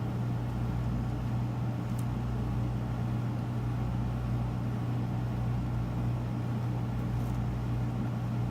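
Steady low hum with a noisy background, even in level, and one faint click about two seconds in.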